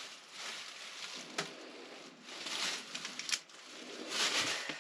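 Soft rustling swells with a few light clicks and knocks from hands handling food and its packaging while pizza toppings are put on.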